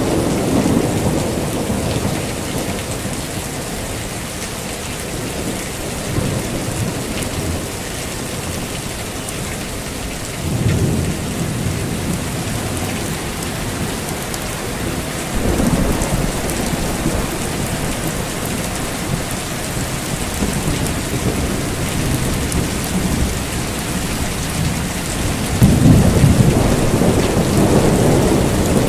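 Heavy rain falling steadily, with several low rolls of thunder rumbling through it; the strongest roll comes near the end.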